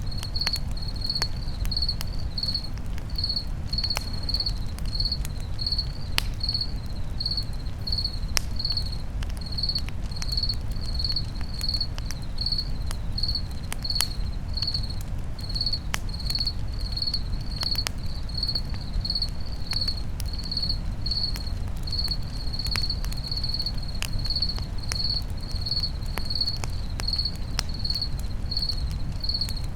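A cricket chirping in a steady, even rhythm, about three chirps every two seconds, over the scattered crackles and pops of a campfire and a low steady rumble.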